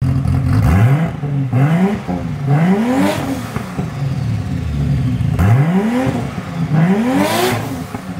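Turbocharged Vortec 4200 inline-six idling through its exhaust and blipped up in revs five times, each rev rising quickly and dropping back to idle.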